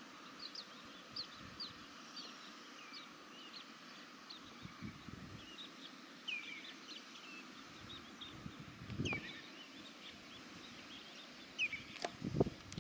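Birds calling in the background: many short, high chirps, scattered and overlapping, over a faint steady hiss, with a few low bumps around the middle and near the end.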